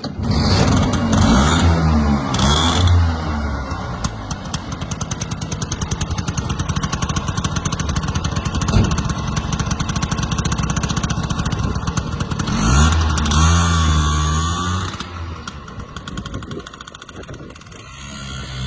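Piaggio Ape 50's small two-stroke single-cylinder engine running: revved up and down a few times at the start, then ticking over steadily, revved again about two-thirds through, and dropping back toward idle near the end.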